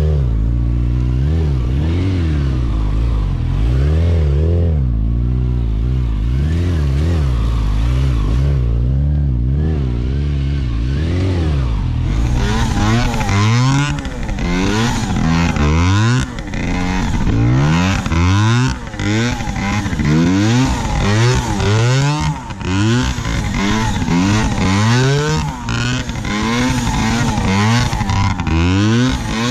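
Motorcycle engine revving up and down over and over as the rider works the throttle through wheelies and stunt riding. The revs rise and fall about once a second in the second half.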